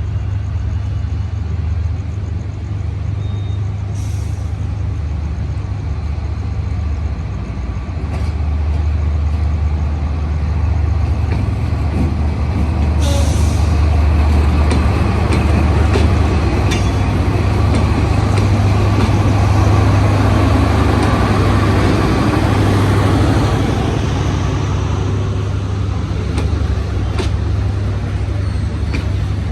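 Diesel locomotive engine hauling a departing passenger train. Its low rumble grows louder toward the middle and eases off near the end, with short hisses of air about four and thirteen seconds in.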